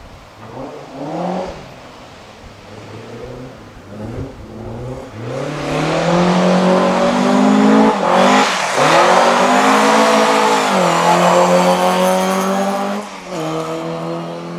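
Ford Escort Mk2 RS2000 rally car's 2-litre four-cylinder engine revving hard through a drift, with loud intake noise. At first it is fainter, its revs rising and falling. From about five seconds in it is close and loud, revs held high, with a quick dip and re-rise around the middle. Near the end it steps down to a lower, steadier note.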